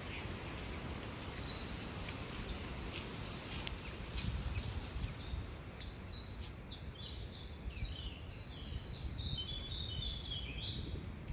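Small birds chirping, with short high notes scattered through and a quick run of chirps over the second half, over a steady low outdoor rumble.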